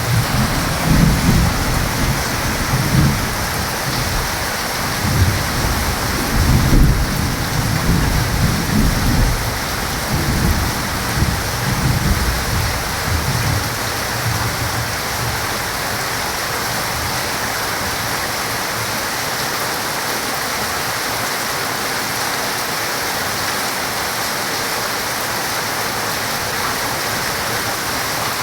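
Heavy rain pouring steadily, with rolling thunder rumbling through the first half and dying away about halfway through, leaving only the rain.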